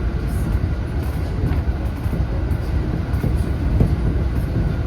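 Running noise heard from inside the leading car of a JR West 227 series electric train: a steady low rumble of the wheels on the rails, with a few faint clicks.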